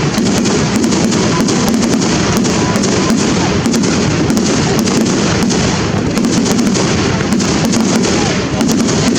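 Fireworks display going off in a continuous barrage: many sharp bangs and crackles in quick succession over a dense, steady rumble.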